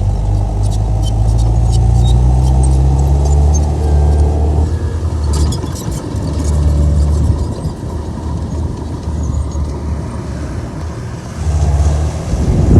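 Komatsu bulldozer's diesel engine running under load, its level rising and falling, with scattered sharp clicks around the first second and again about five seconds in.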